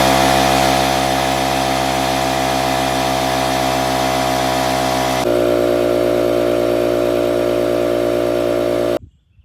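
Air compressor motor and pump running loudly and steadily as it fills its tank. About five seconds in the pitch steps down slightly, and near the end it cuts off abruptly.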